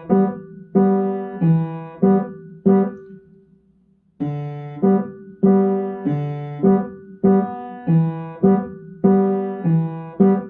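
Piano playing repeated block chords in the low-middle range, the left-hand part of G major and E minor chords, struck a little under twice a second in two runs with a short pause around four seconds in.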